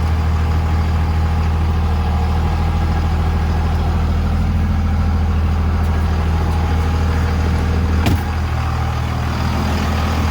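Second-generation Cummins 5.9-litre inline-six turbo-diesel idling steadily as it warms up after a cold start. A single sharp click comes about eight seconds in, after which the engine note shifts slightly.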